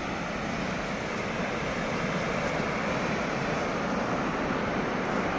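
Steady roar of a tall waterfall, water plunging about 74 metres and crashing at the base, heard as an even, unbroken rush of noise.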